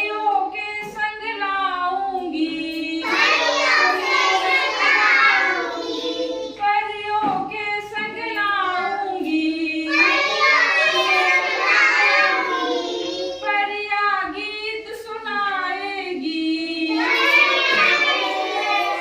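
Children singing a Hindi children's poem in a sing-song chant, fuller passages where more voices join alternating with thinner lines, three times over.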